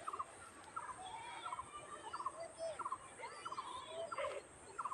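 A bird calling a short, low note over and over, about one and a half times a second, with faint far-off voices in the background.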